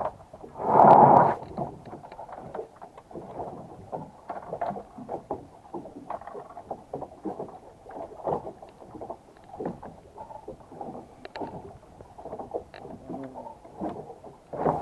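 Water sloshing and slapping against a boat's hull. There is a loud splash about a second in, then irregular small knocks and laps.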